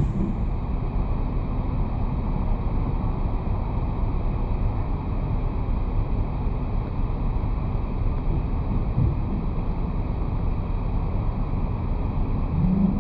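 Steady wind rushing over a roof-mounted action camera on a moving car, mixed with low road and tyre noise. It holds even throughout.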